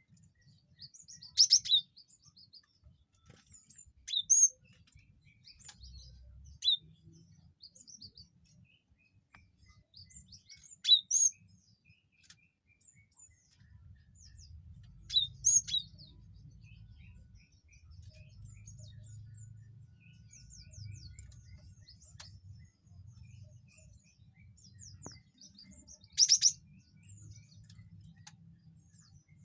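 Cinereous tit (gelatik batu) calling: six loud, sharp high calls spaced a few seconds apart, with rapid runs of thin, high chips in between.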